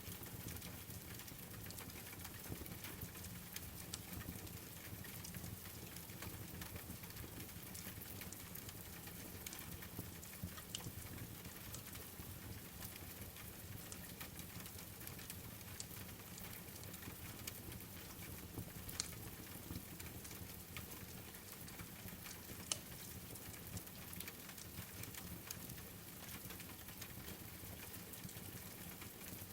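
Steady rain patter mixed with a wood fire crackling: an even hiss with scattered sharp pops, the sharpest about 19 and 23 seconds in.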